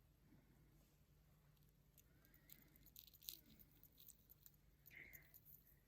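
Near silence: faint room tone with a few quiet small clicks around the middle.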